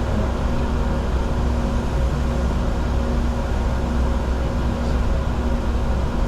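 Steady cockpit noise of a Bombardier Challenger 605 jet in the climb: a constant rush of airflow with a low drone and a few steady hum tones from the aircraft's engines and systems.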